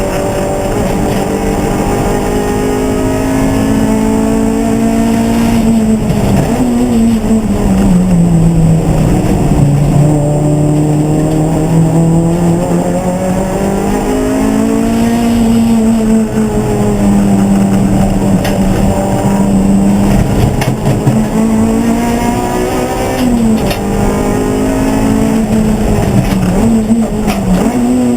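Race car engine running hard, its pitch climbing and falling repeatedly as it accelerates, shifts and slows through corners.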